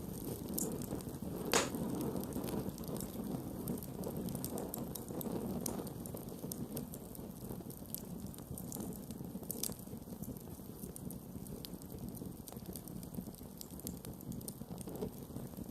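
Campfire burning: a steady low rumble of flames with scattered sharp crackles and pops, the loudest pop about a second and a half in.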